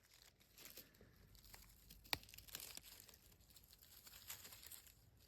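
Faint, irregular rustling and crackling with scattered small clicks, and one sharper click about two seconds in.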